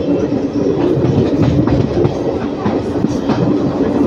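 Indian Railways passenger train running, heard on board: a steady rumble with scattered clicks of the wheels over the rail joints.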